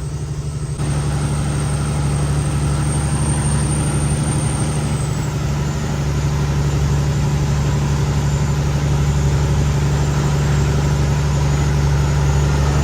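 Cummins X15 diesel engine of a Kenworth T800 truck pulling steadily under a heavy load of about 33 tonnes, getting louder about a second in. A thin high whistle rides over it and dips slightly in pitch around the middle.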